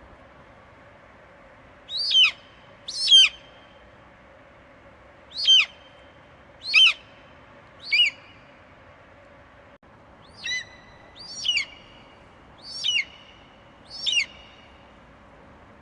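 Raptor screeches sold as eagle calls: about nine sharp, high cries, each sliding down in pitch, in loose pairs and singles from about two seconds in, over a faint steady hiss.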